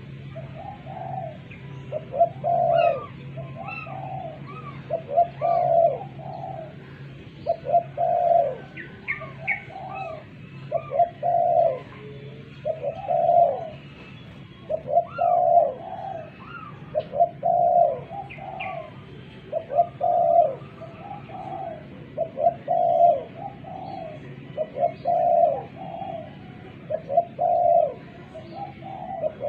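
Spotted dove (tekukur) cooing over and over, a short phrase of a few coos roughly every two seconds, with faint high chirps of other small birds behind it.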